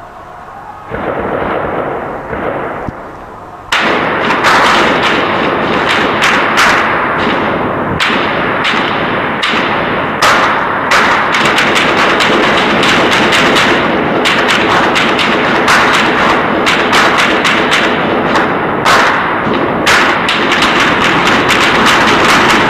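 Heavy gunfire: a short volley about a second in, then from about four seconds in a dense, almost continuous stream of rapid, overlapping shots.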